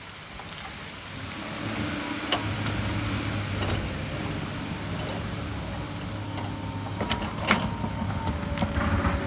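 Hyundai excavator's diesel engine running steadily, getting louder after about a second and a half. Sharp knocks come about two seconds in and again near the end, with smaller knocks around them, and a steady whine sets in shortly before the end.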